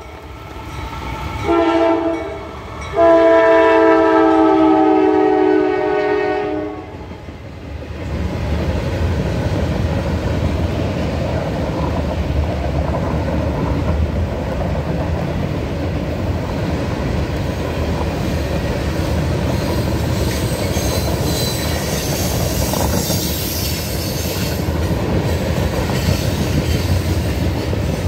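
Norfolk Southern freight locomotive's air horn sounds a short blast and then a long one as the train approaches. The train then rolls past with a steady rumble and rattle of freight cars on the rails, with some high wheel squeal near the end.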